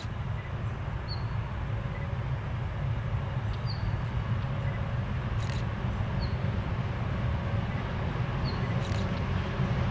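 Low, steady rumble of a 2TE116 twin-section diesel locomotive approaching with a freight train, growing slowly louder. A bird gives a short high chirp every two to three seconds over it.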